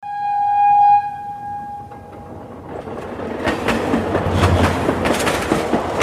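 A single steady train-horn note sounds loudly for about a second and fades out. Then the rumble and clatter of a running train grows steadily louder.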